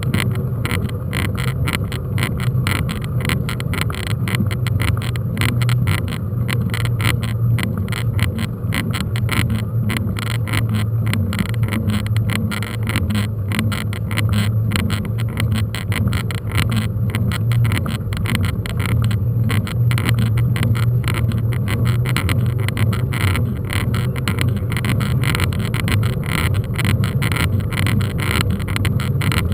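Steady riding noise from a moving mountain bike: a continuous low rumble with fast, constant rattling over it, with no let-up.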